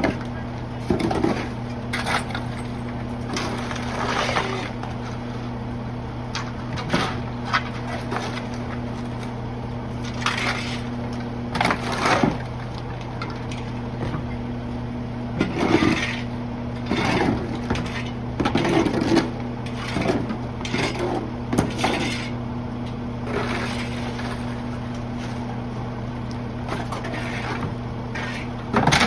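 Refuse truck's diesel engine idling steadily while bulky debris is thrown in, with repeated irregular crashes and clatters of items breaking.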